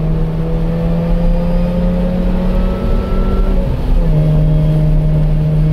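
Car engine pulling under acceleration, heard from inside the cabin, its drone rising slowly in pitch; nearly four seconds in it breaks off briefly for an upshift and picks up again at a lower pitch.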